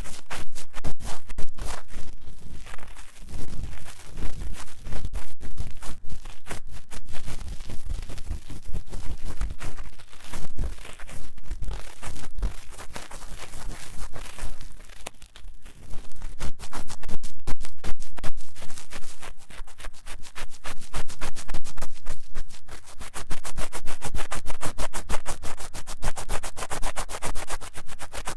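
Ear-cleaning tool scratching fast and roughly inside the silicone ear of a 3Dio binaural microphone, in quick dense strokes with a brief lull about halfway through.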